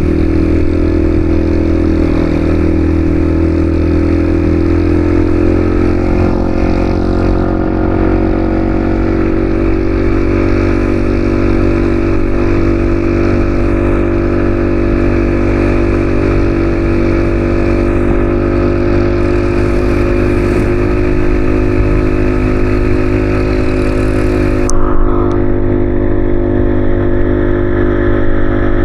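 Yamaha XSR155's single-cylinder engine running steadily under way, holding a nearly even pitch, with a hiss over it that drops away suddenly near the end.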